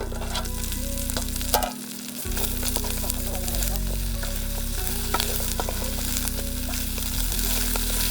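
Chicken pieces sizzling as they fry in a pan and are stirred, with scattered scrapes and knocks of the spoon against the pan.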